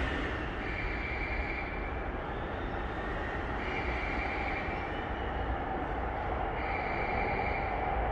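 Steady rumble of a commuter train unseen in an underground station's tunnel. A high electronic tone sounds for about a second, roughly every three seconds.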